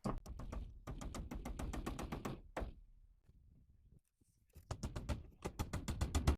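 Rapid knocking in two runs of about eight to ten sharp strikes a second, the second run starting near the five-second mark, from work fastening soffit.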